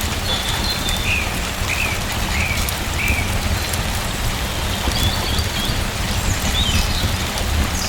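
Steady rain falling, with scattered fine drip ticks and a low rumble underneath. A bird chirps four times in the first few seconds and a few more times near the end.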